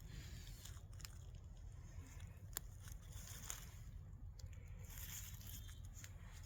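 Faint crunching and rustling of dry forest-floor litter with scattered sharp clicks like snapping twigs, over a low steady rumble.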